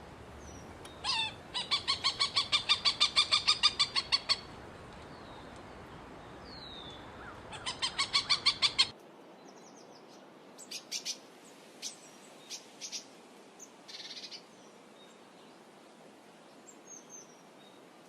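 A hawk calling in a rapid series of sharp repeated notes, about five or six a second. Two runs: a longer one and a shorter one a few seconds later. These are followed by scattered short chirps and chips.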